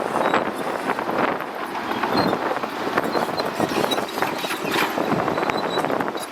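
Shantui DH17C2 bulldozer working, heard as a dense, irregular clatter with no clear steady engine note.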